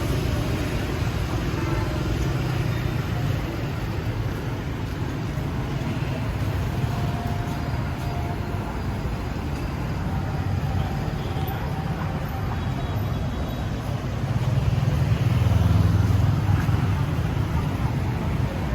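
Busy street traffic: a steady rumble of passing vehicles, growing louder about fifteen seconds in as a vehicle passes close by.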